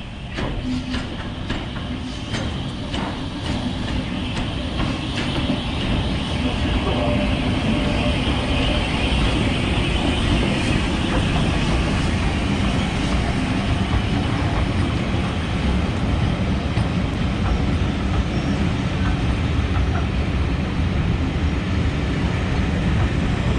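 Steam train running through a station: a loud, steady rumble of the locomotive and carriages that builds over the first few seconds and then holds.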